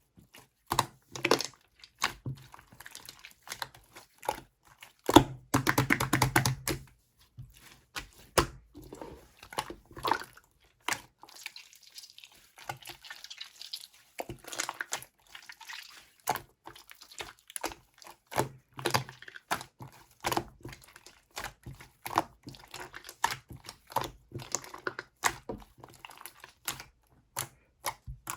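Slime being squeezed, poked and stretched by hand, giving irregular sharp clicks and wet pops, with a run of rapid crackling about five seconds in.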